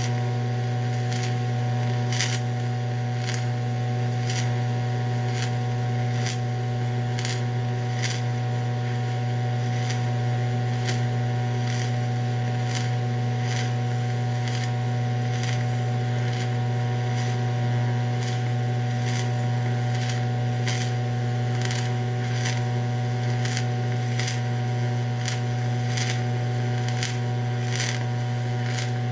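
DC TIG welding arc on aluminum, electrode positive (DCEP), running continuously: a steady buzzing hum with irregular sharp crackles and pops throughout.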